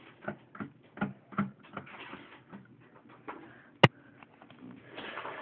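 Plastic Lego pieces clicking and tapping as the toy truck is handled: light, irregular clicks with one sharper click a little before the end.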